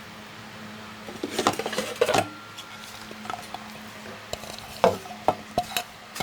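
Dishes and utensils clinking and knocking together in two short flurries, the first about a second in and the second near the end.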